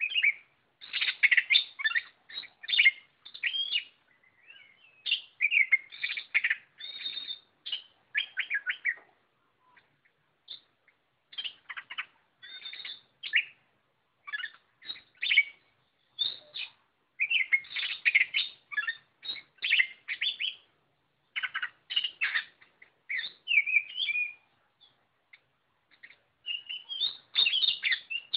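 Oriental magpie-robin singing in full voice: quick runs of varied whistles and chattering notes, broken by short pauses, with longer breaks about ten seconds in and a few seconds before the end.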